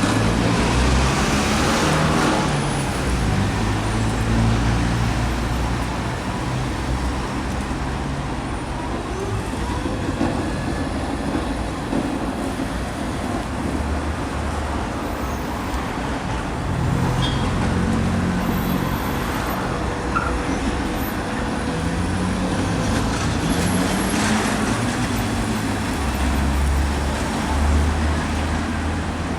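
Battery-powered ride-on floor scrubber running, its brush and vacuum motors making a steady hiss over a low hum that shifts in pitch now and then.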